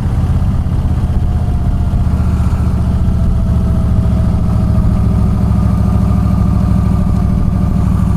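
Yamaha V-Star 1300's V-twin engine running steadily, a loud, low pulsing exhaust note.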